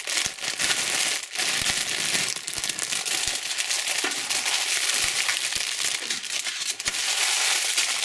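Candy wrappers crinkling and crackling steadily as they are handled and unwrapped, with many small sharp crackles.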